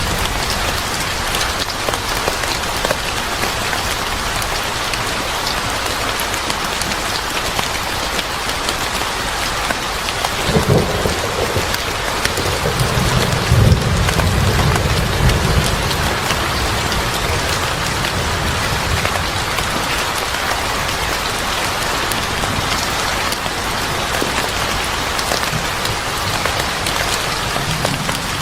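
Steady heavy rain falling. Low thunder rumbles come in twice: a short one about ten seconds in, then a longer one a few seconds later.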